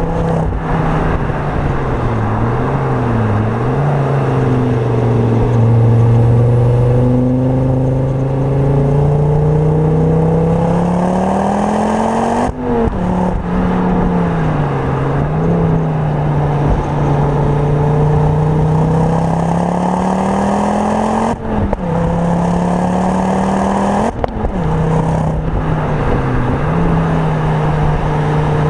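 Tuned Ford Focus RS Mk2's turbocharged five-cylinder engine, with a full Milltek exhaust, heard from inside the cabin while driven hard on track. The engine note climbs steadily under load and is broken three times by brief breaks where it drops and picks up again.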